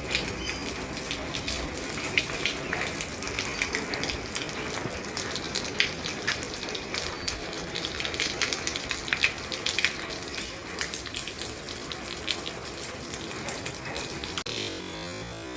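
Heavy rain falling on an old roof: a steady hiss dotted with many sharp drop ticks.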